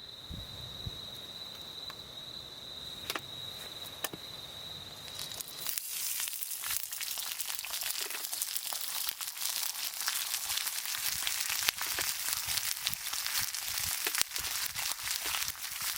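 An insect trilling one steady high note, with a couple of sharp snaps, until about six seconds in; then a wood fire starts crackling, dense and continuous with many pops, to the end.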